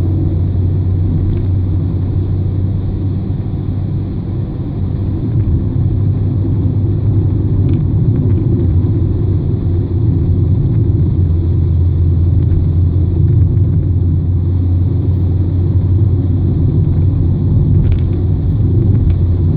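Steady car cabin noise while driving at about 60 km/h: a low engine and road rumble, heard from inside the car.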